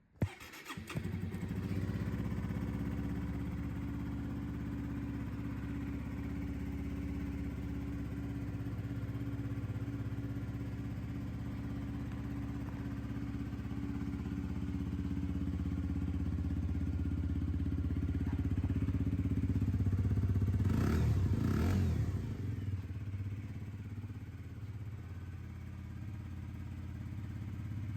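Suzuki GSX-R125's single-cylinder four-stroke engine starting up and settling into a steady idle. About three-quarters of the way through it revs briefly once and drops back to idle.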